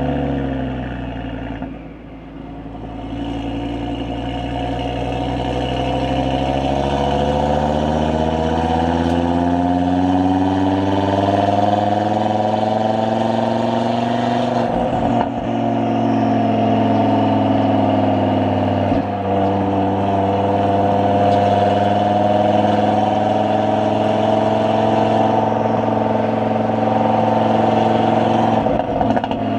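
Audi RS3's turbocharged 2.5-litre five-cylinder engine, fitted with a catless downpipe and sport exhaust, running at cruising speed. The note dips about two seconds in, then rises slowly under light acceleration and holds steady. Three short breaks in the note come in the middle and near the end.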